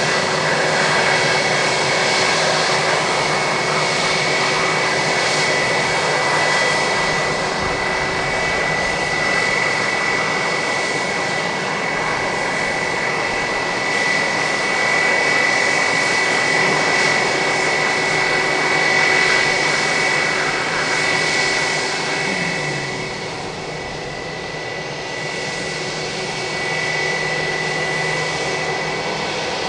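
Airbus A320-232's IAE V2500 jet engines running at idle: a steady jet noise with a constant high whine that eases slightly about three-quarters of the way through.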